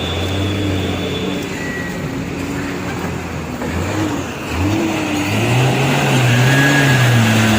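A vehicle engine revving up and down, getting louder about five seconds in.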